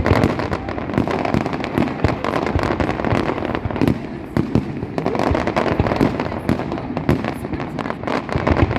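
Fireworks going off in a dense, continuous barrage, many bangs a second over a steady crackling rumble.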